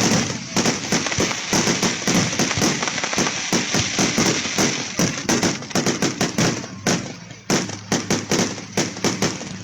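Fireworks going off in a rapid, dense string of sharp bangs and cracks, thinning to a few spaced bangs near the end.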